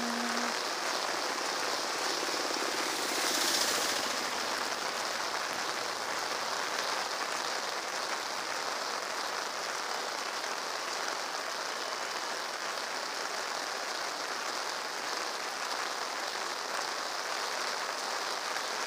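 Heavy rain falling steadily in a dense, even hiss and patter on a wet road. It grows briefly louder about three and a half seconds in.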